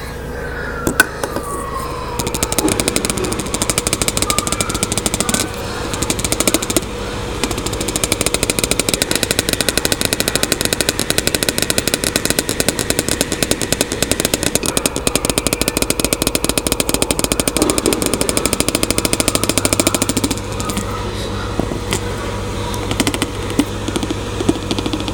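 LG washing machine in its spin cycle: a steady motor hum with a fast, loud rattle that sets in about two seconds in, after a briefly falling tone.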